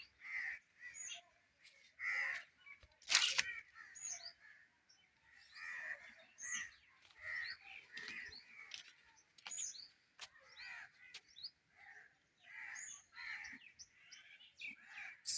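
Birds calling: a run of short repeated calls about once a second, with quick high chirps from smaller birds in between.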